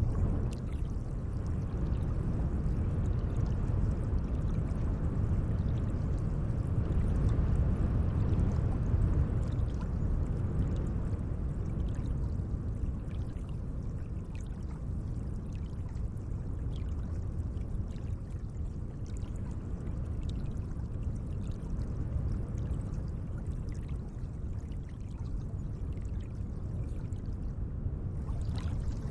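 Gentle lake water washing and lapping, a steady low rush with faint small splashy ticks, swelling slightly a few seconds in.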